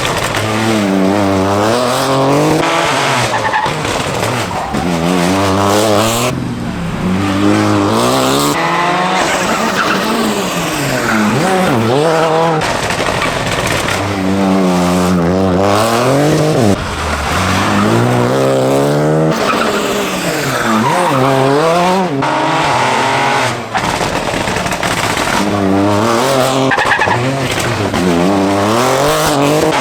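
Rally car engines revving hard, pitch climbing and dropping sharply again and again with gear changes, as several cars are driven flat out.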